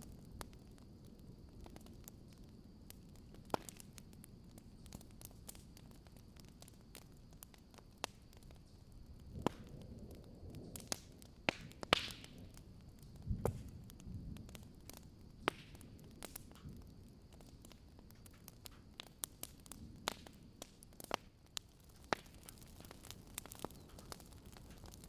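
Wood fire crackling, with irregular sharp pops and snaps scattered through a faint hiss, the loudest pop about twelve seconds in.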